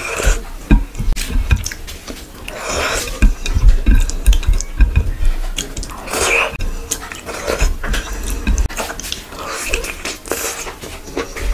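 Close-miked eating sounds of rice and curry eaten by hand: wet chewing and lip-smacking with many sharp mouth clicks. There are louder noisy surges about three seconds in, around six seconds in and near the end.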